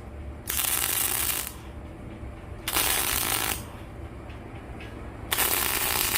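Electric welder laying short tack welds on steel plate: three separate bursts of hiss, each about a second long, over a steady low hum.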